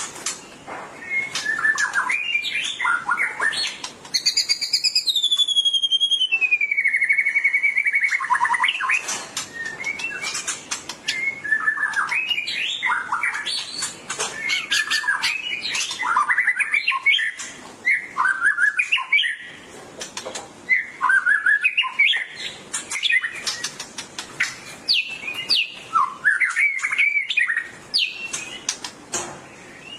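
White-rumped shama (murai batu) singing a loud, varied song of whistles, pitch glides and sharp chattering notes. Near the start it gives one long slurred whistle that falls in pitch. This is the full, aggressive song of a bird in fighting form.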